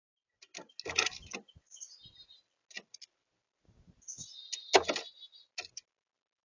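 Birds on a balcony: two clusters of sharp taps and scuffs, about a second in and again from about four seconds in, mixed with short high chirps.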